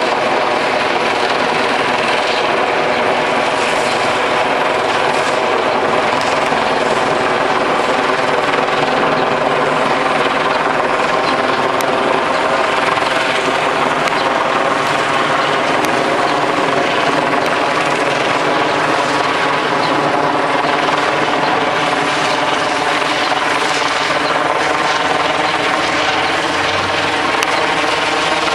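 Helicopter hovering overhead: a steady rotor and engine drone that holds an even level throughout.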